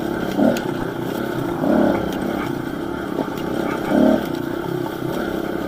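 Dirt bike engines running at idle, a steady motor sound with three brief swells in level.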